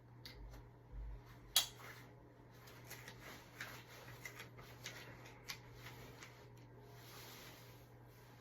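Light rustling and scattered small clicks from a person moving about during exercise, with one sharper click about one and a half seconds in, over a steady low hum.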